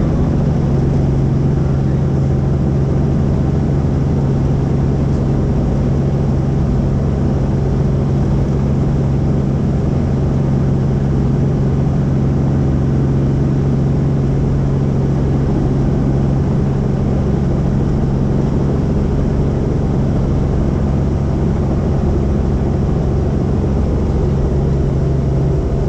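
Helicopter in flight: steady, even engine and rotor noise with a strong low hum.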